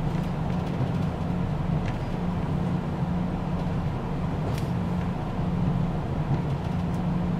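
Diesel railcar running, heard from inside the carriage: a steady low engine hum over the rumble of the moving train, with two faint ticks about two and four and a half seconds in.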